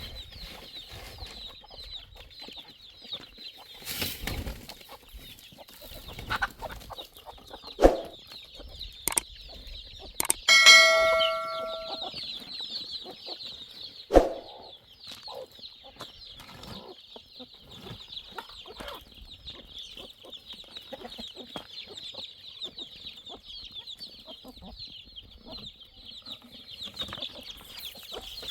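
Chickens clucking, with a steady high chirping behind them. About ten seconds in, a piece of metal is struck once and rings for a second or so. A few dull knocks come before and after it.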